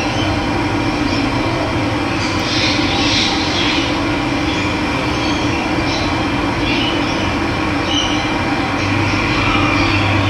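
Steady rush of running water, with birds calling now and then.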